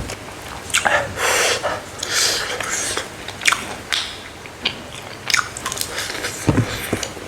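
Close-up, crunchy biting and chewing of smoked frog, with irregular crisp crunches, the loudest a second or two in.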